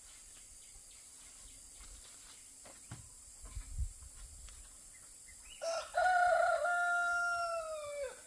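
A rooster crowing once: one long call starting about five and a half seconds in, held steady and then falling away at the end. A few soft low thumps come a couple of seconds before it.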